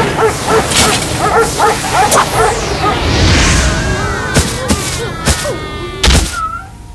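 Animated dogs barking and yipping in a quick run of short yelps, about two a second, over the first three seconds or so, followed by swooshing glides and a few sharp hits.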